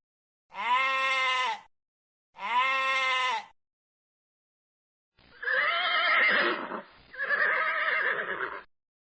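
An animal call repeated twice, the same pitched, bleat-like cry of about a second each time. After a pause of about two seconds comes a different, harsher call in two parts.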